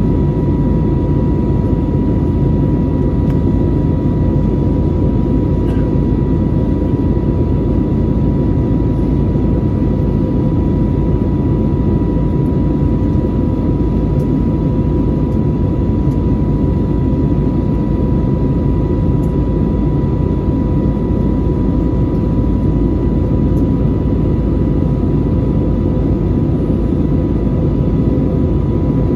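Airbus A320neo cabin noise in flight: a steady loud rumble of engines and airflow heard from inside the passenger cabin, with a steady high-pitched hum running through it.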